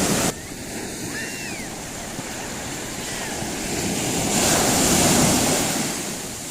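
Sea surf washing onto a beach. The noise of the waves drops suddenly just after the start, then builds to a loud swell about five seconds in before falling back.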